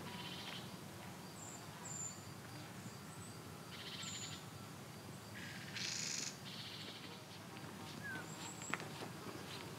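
Small birds chirping and trilling: short high calls and several buzzy trills, the loudest trill about six seconds in, with one sharp click near the end.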